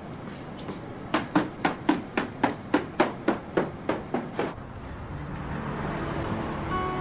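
A run of about a dozen sharp knocks, evenly spaced at roughly three a second and all about equally loud, stopping after a few seconds.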